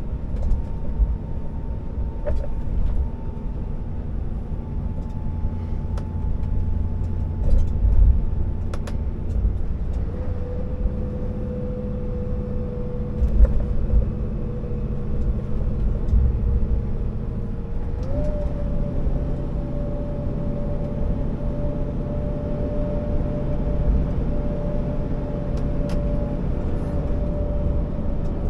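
Scania R650 timber truck's V8 diesel running under heavy load: a deep, steady rumble with a thin whine that steps up in pitch about two-thirds of the way through, and a few brief rattles and knocks.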